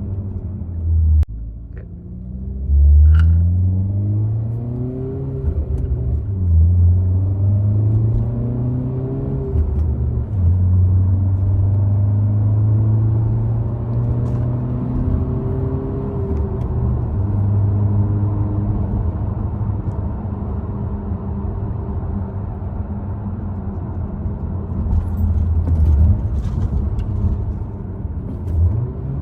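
Exhaust note of an 11th-generation Honda Civic Hatchback's 1.5-litre turbocharged four-cylinder through an MBRP aftermarket exhaust. It is a low exhaust note whose pitch rises and falls several times as the revs change.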